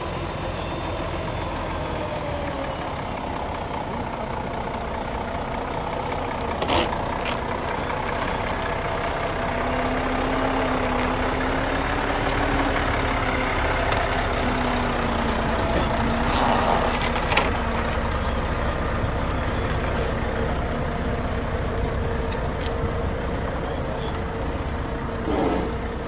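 A heavy trailer truck's engine running steadily amid road traffic noise, with a wavering tone partway through and a few short clicks.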